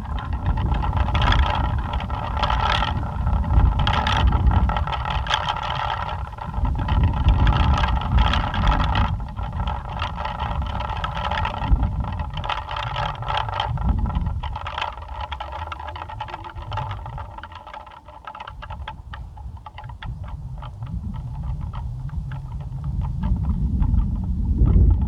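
Plastic pinwheels spinning in gusty wind, giving a steady whir with fast clicking over the low rumble of wind on the microphone. The whir fades as the wind drops about two-thirds of the way in, then picks up again near the end.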